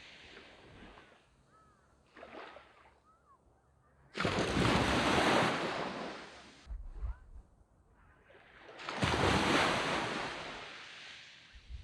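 Waves breaking on a sand beach: one wave hits suddenly about four seconds in and another about nine seconds in, each washing up and fading, with quieter lulls between them.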